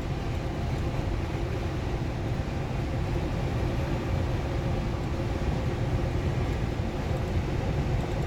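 Semi-truck driving at road speed: a steady drone of engine and road noise.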